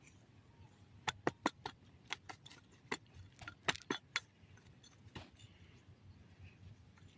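An irregular run of sharp clicks and knocks, about a dozen over three seconds, then one more about five seconds in, over a faint low background.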